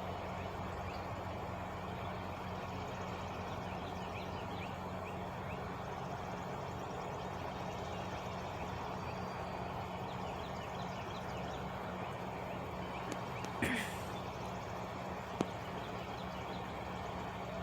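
Truck engine idling with a steady low hum. Birds chirp faintly, and a short hiss about two thirds of the way in is followed by a single click.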